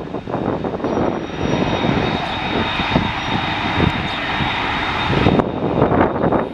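Airliner's engines running as a plane passes, a dense rumble with a steady high whine over it; the whine cuts off abruptly a little over five seconds in.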